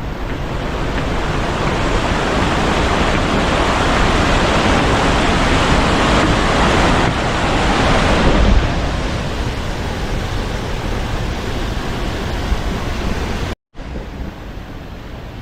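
Rushing water of a mountain valley stream, a steady hiss that swells over the first eight seconds and then eases. It cuts out for a moment near the end and comes back quieter.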